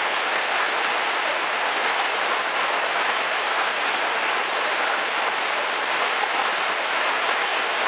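Heavy rain falling steadily on a car roof, a dense, even hiss of drops with an occasional faint tick of a single drop.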